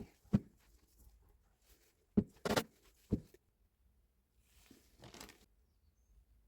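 Parts being handled and set down during the rebuild of a Hilti TE76 hammer drill: a handful of short, sharp knocks, four in the first three seconds, then a softer rustle or scrape about five seconds in.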